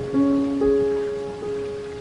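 Steady rain with soft piano music over it: a couple of notes struck near the start and about half a second in, ringing on and slowly fading.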